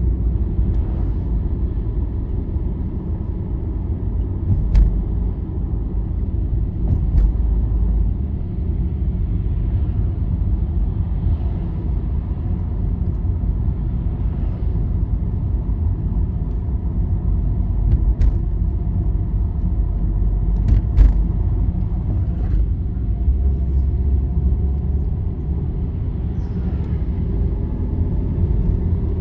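Road vehicle driving at speed on a highway at night: a steady low rumble of engine and tyres, with a few sharp clicks and rattles now and then.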